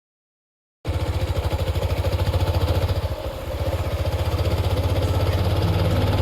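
Motorcycle engine running with a rapid, even low pulse, starting suddenly about a second in and dipping briefly about three seconds in.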